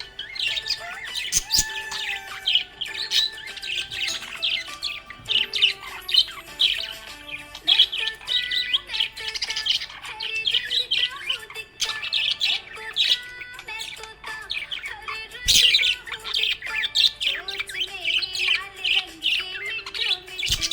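Budgerigar chirping and warbling in a rapid, continuous stream of short high chirps, over background music with held notes. One short knock about three-quarters of the way through.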